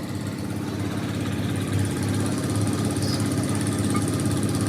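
An engine running steadily: a low, even drone that swells over the first second or so and then holds.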